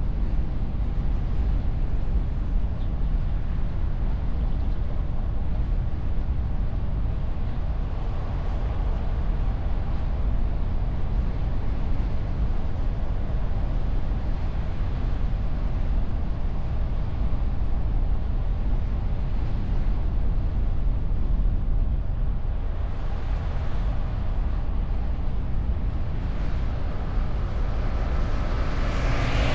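Steady low rumble of wind and road noise from a car driving, picked up by a camera mounted on the hood behind a wind muffler. A higher hiss swells near the end.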